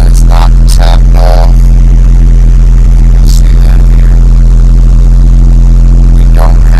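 Rental truck's engine running at a steady idle: a loud, unchanging low drone.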